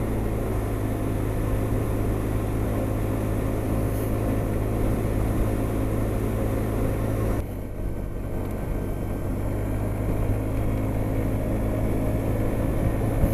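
Honda SH300i scooter's single-cylinder engine and wind rush while riding at road speed, a steady drone. About halfway through the sound drops suddenly, then builds back up gradually.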